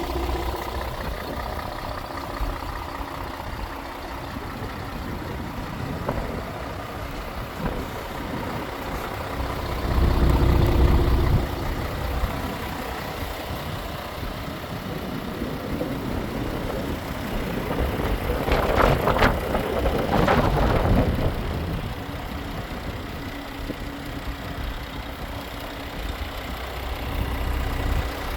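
Scania R450 truck's 13-litre six-cylinder diesel idling steadily, with a louder low swell about ten seconds in and two brief louder surges about two thirds of the way through.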